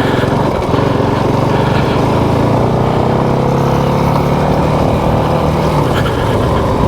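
Motorcycle engine running steadily, its pitch rising a little and settling again about midway through.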